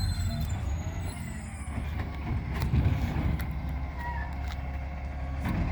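Garbage truck engine running with a steady low drone, with a few short faint squeaks and clicks over it.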